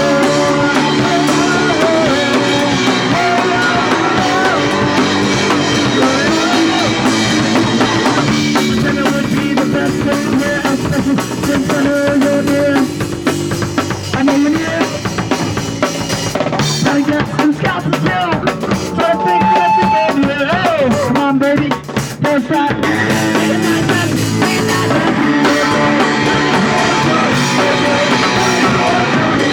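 Live punk rock band playing loud, with drum kit, distorted guitar and bass. Through the middle the sound thins out to a sparser, drum-led stretch with many separate hits before the full band comes back in.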